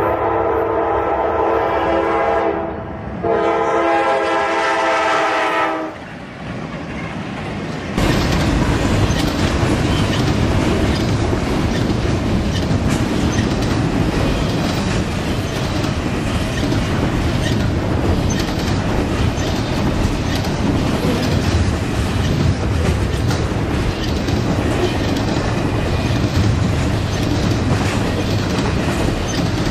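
Diesel locomotive's multi-chime air horn sounding two long blasts with a short gap between them. About eight seconds in, the steady rumble and clicking wheels of a double-stack intermodal freight train passing close by start abruptly and carry on.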